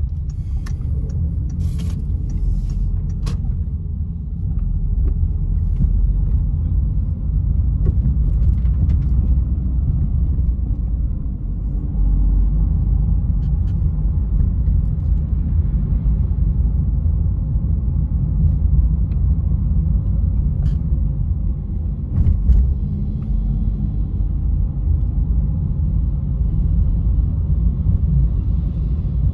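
Citroen C3 1.4 VTi four-cylinder petrol engine running steadily with a low rumble, with a few light clicks in the first few seconds. It gets somewhat louder about five seconds in and again about twelve seconds in.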